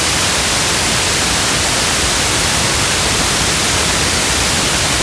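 Steady rain sound: an even, unbroken hiss with no single drops or other events standing out.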